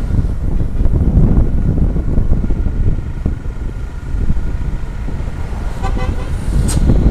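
Wind buffeting and road rumble from a moving truck. About six seconds in comes a quick burst of short vehicle-horn toots.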